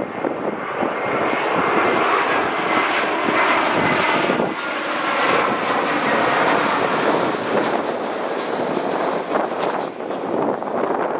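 Jet airliner engines passing by as the aircraft comes in to land, a loud rushing roar that swells a couple of seconds in and holds before easing slightly.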